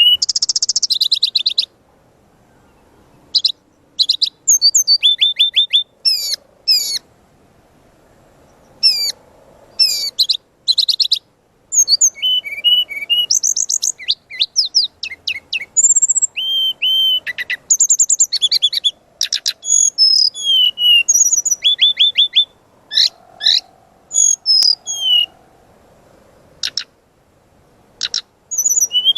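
Brown-chested jungle flycatcher (sikatan rimba dada coklat) singing a fast, varied song of short high whistles, slurred notes and quick trilled runs, in bursts with brief pauses between them.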